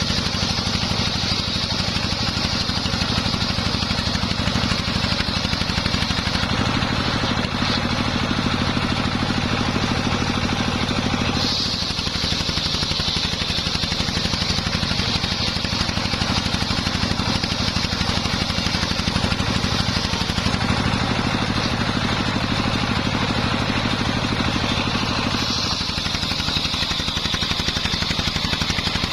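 Home-built engine-driven circular sawmill running with a steady engine beat and a high whine on top. The sound changes about 11 seconds in and again near the end.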